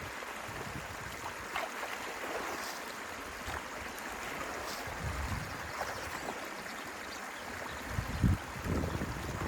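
Stream water running steadily over a beaver dam being dug out, with a few low thuds near the end.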